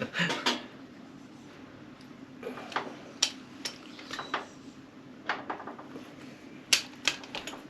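Scattered sharp metal clicks from a torque wrench being worked on the cylinder head bolts of a Yamaha TZ 350 two-stroke engine during torquing-down, over a steady low hum.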